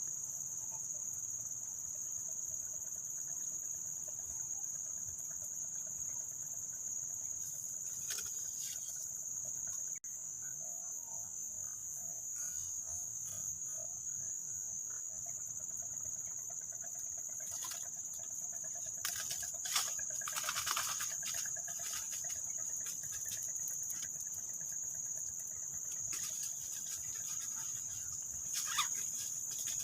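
Steady high-pitched chirring of insects, with a few short crackling rustles about two-thirds of the way through and again near the end.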